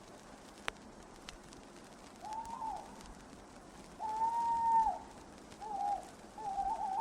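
Owl hooting: a short hoot, then a longer held hoot, then two shorter wavering hoots near the end.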